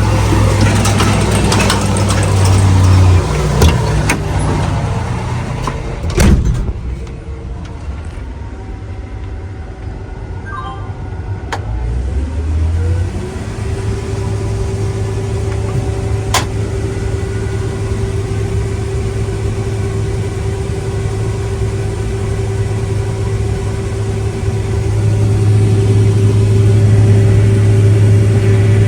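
Heavy farm machinery engine running. It eases off after a sharp knock about six seconds in. A steady whine comes up about thirteen seconds in and holds, and the engine builds louder again near the end.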